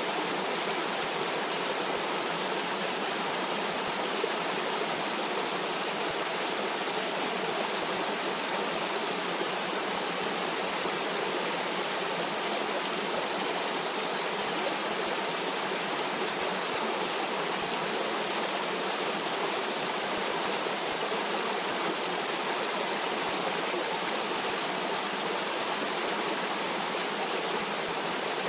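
Stream water flowing steadily, an even rushing with no breaks or changes.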